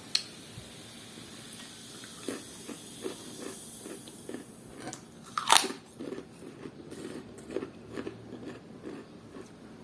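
Close-miked chewing of crunchy fried food, with a sharp crack right at the start and a loud crunching bite about five and a half seconds in. Between and after them come repeated crunching chews at about two a second.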